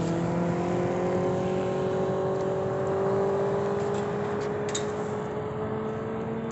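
Motorcycle engine running steadily under way, its pitch rising slowly and evenly as it gains speed.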